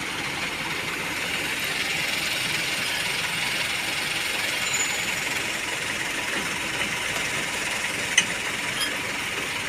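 Truck engine idling steadily, with a single sharp click about eight seconds in.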